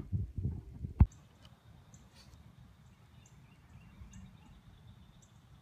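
A few low thumps and a sharp click about a second in, then outdoor ambience: a low wind rumble on the microphone and a short, high bird chirp repeated roughly once a second.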